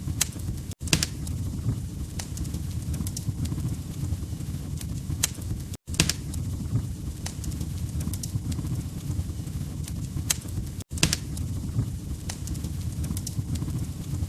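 Wood fire crackling in a fireplace: irregular sharp pops and snaps over a low rumble of flames. The sound cuts out for an instant three times, about five seconds apart.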